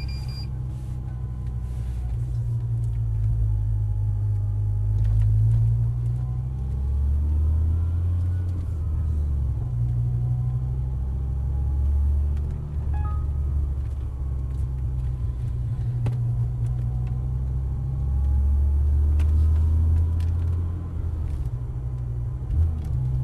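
Twin-supercharged V10 of a G-Power Hurricane BMW M5 Touring heard from inside the cabin, running at low speed with a deep rumble that swells and eases several times as the throttle opens and closes. A faint whine rises and falls with the revs.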